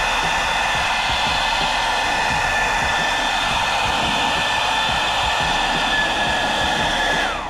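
Philips SenseIQ hair dryer running at its highest fan speed, a steady loud rush of air with a whine, then cutting out on its own after three minutes of continuous running: near the end the motor stops and the whine falls in pitch as the fan winds down.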